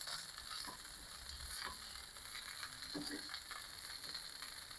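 Faint sizzling of beef tallow on a hot cast iron sear plate as burgers and buns cook, with a few light clicks scattered through it.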